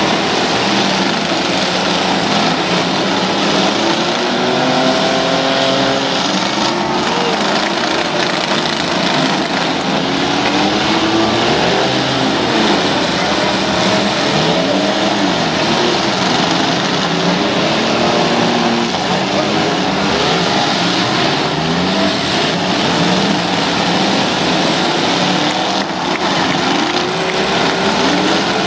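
Engines of several full-size pickup trucks and vans revving hard at once, their pitches rising and falling over one another without a break.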